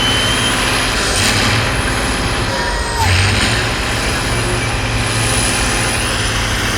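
Heavy off-road trial truck's diesel engine running steadily, with a few short bursts of hiss.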